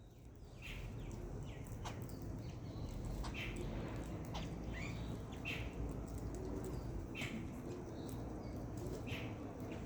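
A bird giving short single chirps, one every second or so, over a steady low background rumble.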